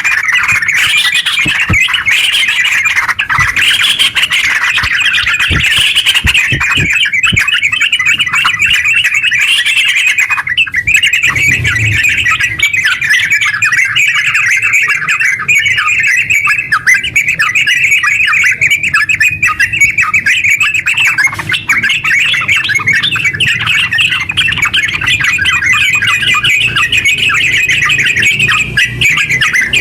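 Yellow-vented bulbul (trucukan) singing in a long, unbroken run of quick chattering notes, the rapid rolling song that bird keepers call 'ngeropel'.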